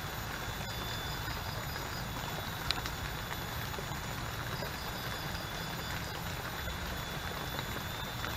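Steady rain hiss in forest with a low rumble underneath, a faint high trill twice, and one small click about three seconds in.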